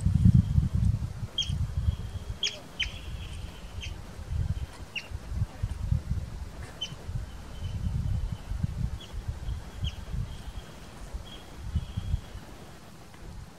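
Small bird giving short, high, down-slurred chirps, about a dozen at irregular intervals, over gusty wind rumbling on the microphone.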